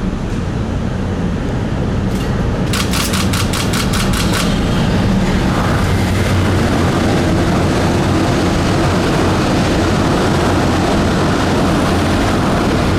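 Tokyo Monorail train running, a steady loud rumble with a low hum, and a quick run of about eight sharp clicks around three seconds in.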